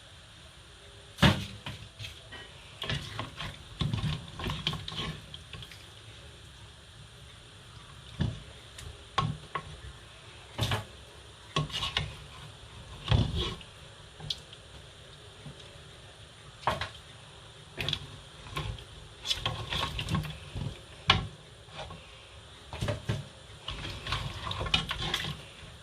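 Kitchen handling: irregular knocks and clatter of food and utensils against a metal baking tray, over a steady hiss.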